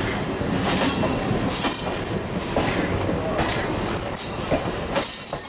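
Electric multiple unit (EMU) local train coaches running past close by: a steady rolling rumble with repeated clacks as the wheels pass over rail joints.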